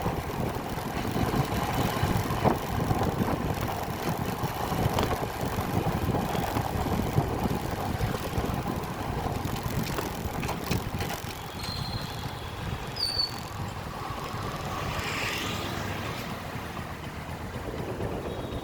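Steady rumble of road and wind noise from a moving bike, with a few sharp knocks and two brief high whistles a little past the middle.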